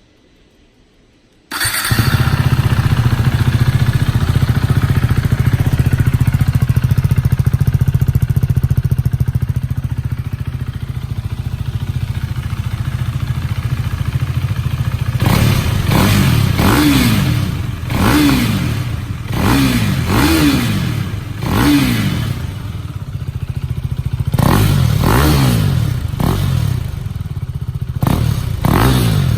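Husqvarna Vitpilen 401's single-cylinder engine through an Akrapovic slip-on exhaust with its baffle in, warmed up. It comes in suddenly about a second and a half in and idles with a deep exhaust tone. From about halfway on it is blipped about ten times in quick revs, each falling straight back to idle.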